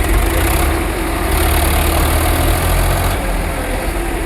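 Tractor engine running steadily, growing louder for about two seconds in the middle.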